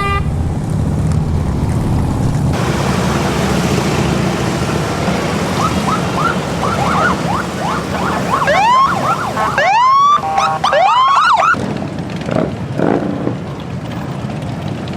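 Massed motorcycle engines rumbling steadily. Through the middle a siren yelps in quick rising sweeps that grow longer and higher, then stops.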